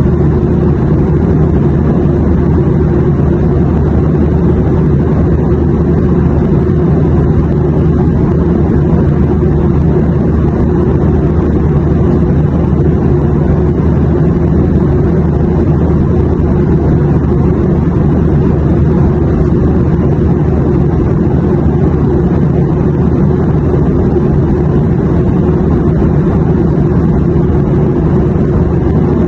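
Airplane noise in flight: a steady, unchanging deep rumble with no distinct events.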